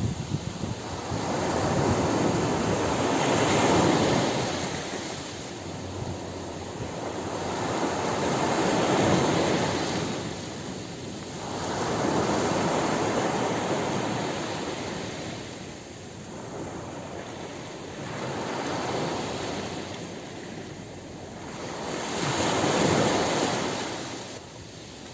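Ocean surf breaking on a beach: waves rush in and draw back in slow swells, about five of them, each one rising to a broad hiss and fading again.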